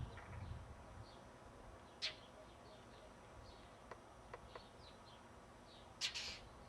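A bird calling: a steady run of short, falling chirps, with two louder calls, one about two seconds in and one near the end. A few faint clicks come around the middle.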